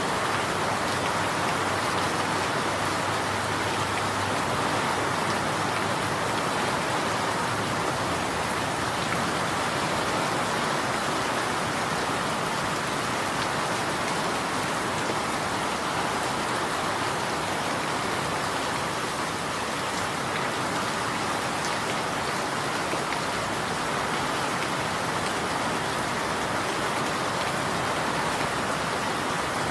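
Steady rain falling, a continuous even hiss of drops on surfaces with no thunder.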